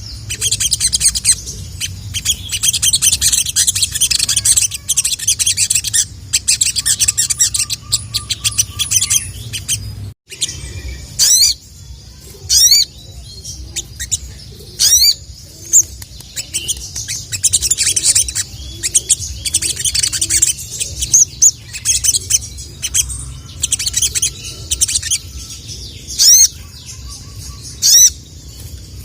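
Sogon (sogok ontong, the ruby-cheeked sunbird) singing: fast high chattering trills broken by sharp, repeated 'cuit' whistles that sweep up and down in pitch. A steady low hum runs beneath, and the sound cuts out briefly just after ten seconds.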